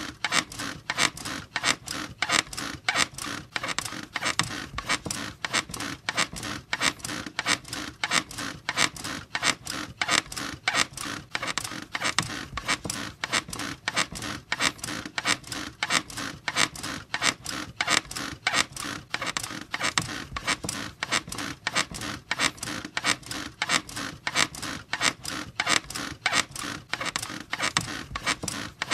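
Bed squeaking in a steady rhythm, about three creaks a second, as the frame and springs are rocked over and over.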